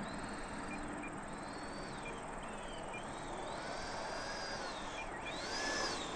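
Electric ducted fan of an FMS Rafale RC jet whining at low power on the landing approach, its pitch rising and falling as the throttle is eased in and out, faint over steady outdoor noise.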